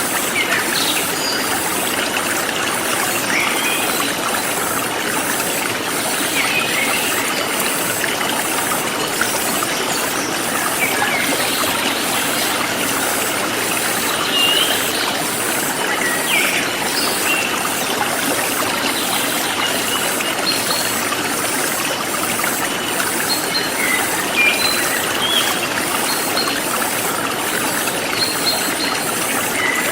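Forest stream flowing steadily, with scattered short bird chirps and an even, high-pitched pulsing of insects.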